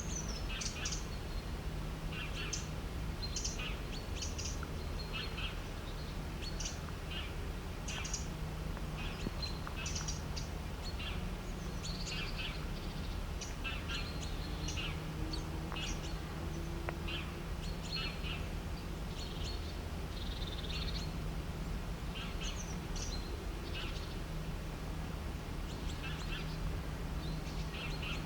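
Several birds chirping and calling in short bursts of high notes throughout, over a steady low hum.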